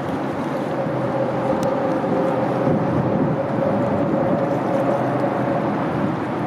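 Steady engine drone with a constant hum that fades out near the end, mixed with wind noise on the microphone.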